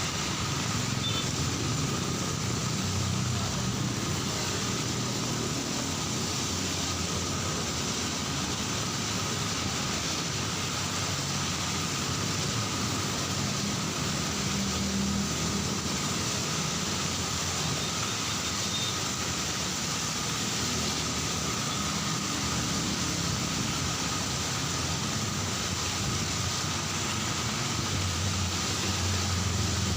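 Heavy rain falling steadily, with road traffic running underneath.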